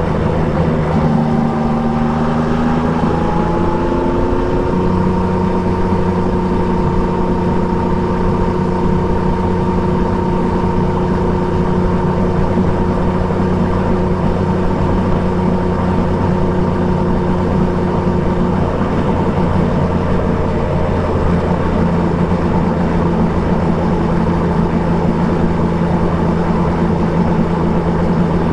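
Triumph Trident 660's three-cylinder engine running under way through an Akrapovic exhaust. The engine note rises over the first few seconds, shifts about five seconds in, then holds steady at cruising speed.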